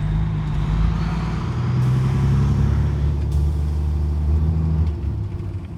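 Peterbilt 379's 550 hp Cat C-15 diesel engine running, its pitch shifting a couple of times and falling away near the end.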